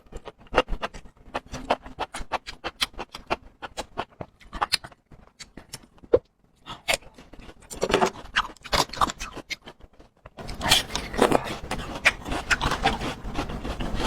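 Close-miked chewing: an irregular run of crisp crunches and wet mouth clicks, which grows denser and louder about ten seconds in.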